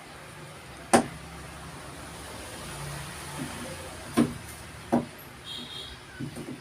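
Three sharp hammer blows: one about a second in, then two about three-quarters of a second apart near four and five seconds. A low steady rumble runs underneath, between the first and second blows.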